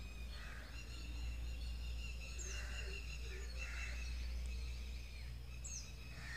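Birds chirping and whistling, with short high chirps twice, over a steady low hum.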